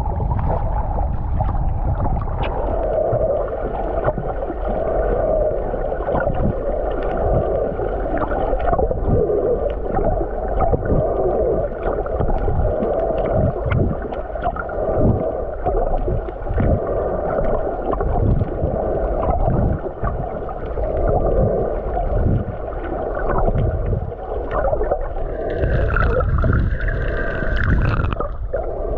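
Sea water sloshing and gurgling in irregular surges.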